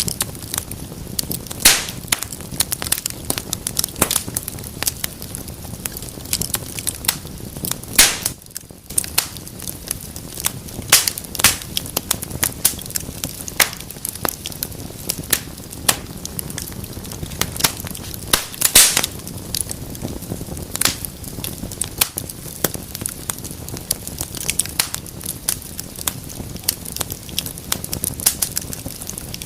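Wood fire crackling in a fireplace: a steady low rush of flame under irregular sharp pops and snaps, a few of them loud.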